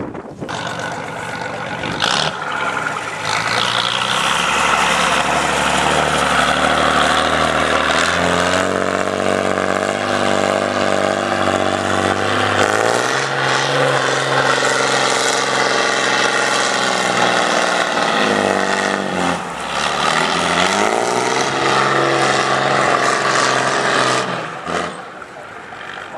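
Trial truck's engine running hard under load, its revs stepping up and down, dipping briefly about three quarters of the way through, rising again, then dropping away near the end.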